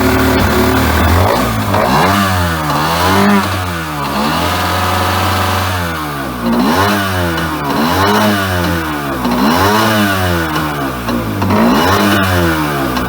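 A 1996 Wetjet Duo jet ski's 701 cc two-stroke engine idles briefly, then is revved up and let fall back over and over, about eight times, with a short steady hold partway through.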